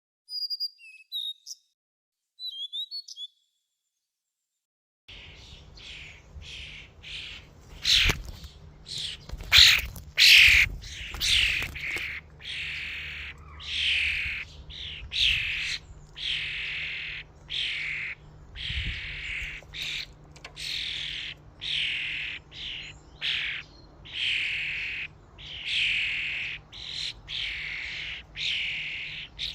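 Common starlings calling: a harsh call that falls in pitch, repeated about once a second, after a few short high chirps and a brief gap of silence near the start. Several loud knocks come in among the calls between about 8 and 12 seconds in.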